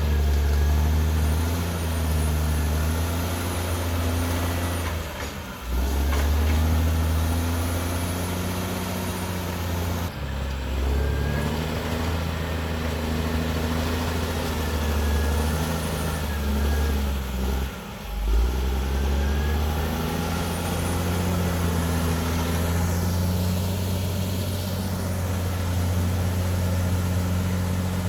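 CAT D6R XL track bulldozer's diesel engine running under working load, its pitch sagging and picking up again several times, with a faint high whine above it.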